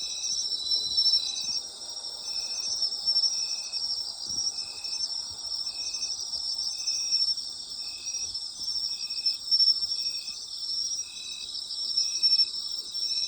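A night chorus of autumn insects: dense, continuous high-pitched trilling, with one insect chirping at a steady rhythm a little more than once a second. A steady high trill in the chorus stops about a second and a half in.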